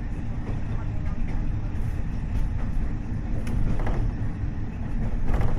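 Running sound inside a KiHa 40 diesel railcar with a DMF15HSA engine: a steady low rumble of engine and wheels, with three sharp clacks about a second and a half apart.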